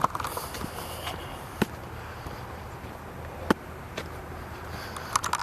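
A few scattered, irregular sharp ticks and taps over faint steady background noise.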